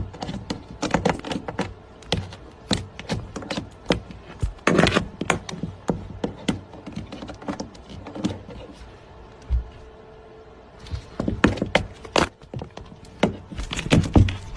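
A rapid, irregular run of knocks and clatters, thinning out for a couple of seconds around the middle before picking up again.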